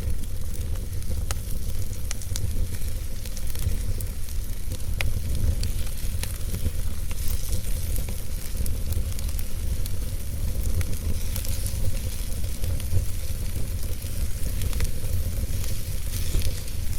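Logs burning in a fireplace: a steady low rumble and hiss of the fire, with scattered sharp crackles and pops from the wood.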